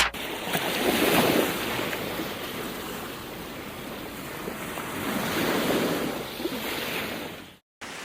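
Ocean waves washing onto a beach, swelling about a second in and again around five to six seconds, with wind buffeting the microphone. The sound cuts off abruptly near the end.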